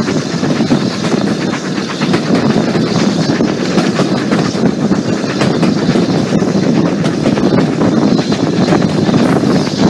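Steam-hauled heritage passenger train in motion, heard from an open carriage window: a steady rumble of wheels on rail with many small clicks running through it.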